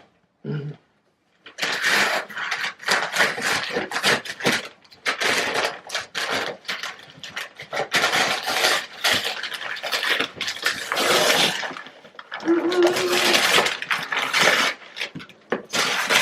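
Continuous rustling and crinkling of packaging being handled, with many small clicks and knocks; the handling starts after a brief silent gap near the beginning.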